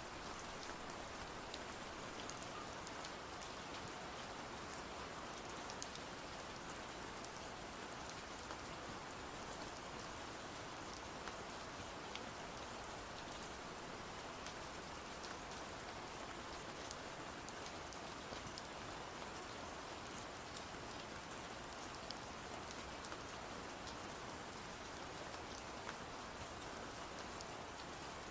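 Steady rain falling, an even hiss with scattered faint, sharp ticks of drops.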